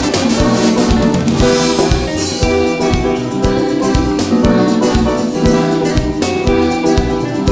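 Instrumental passage of a gospel hymn: a band playing sustained chords over a drum kit keeping a steady beat.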